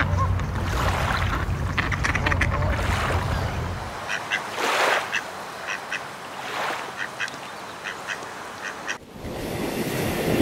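Mallard ducks quacking. A low rumbling noise lies under the first few seconds, then comes a quick run of short quacks, several a second, until a rising whoosh near the end.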